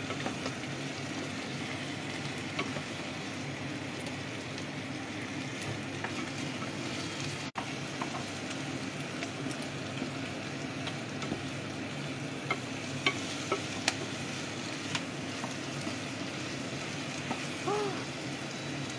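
Adobo sizzling in a pot as its sauce is cooked down dry, so the meat fries in its own fat. A wooden spatula stirs it, scraping and tapping the pot now and then. The sound cuts out for a split second a little before halfway.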